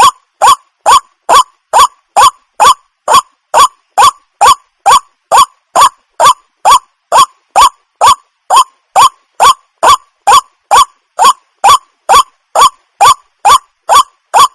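Waterhen (jal murgi) calling: a short, rising call repeated at an even pace, a little over two calls a second, each one alike.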